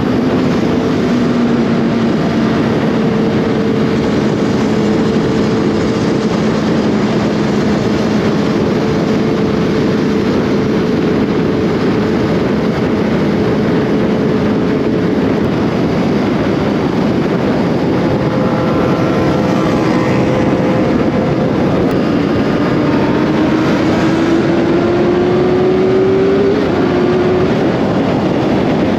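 Motorcycle engine running at a steady cruise under a loud rush of wind noise, its pitch climbing for a few seconds near the end as it accelerates.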